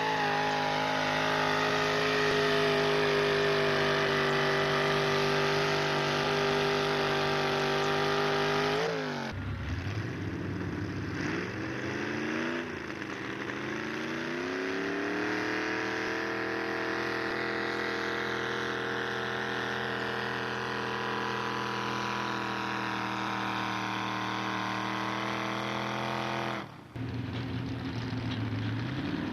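A pulling truck's engine running at high revs under load, a loud steady drone. About a third of the way in the sound breaks off sharply, the engine pitch dips and wavers, then climbs back and holds high again. Near the end there is a brief dropout, after which the engine comes back at a lower pitch.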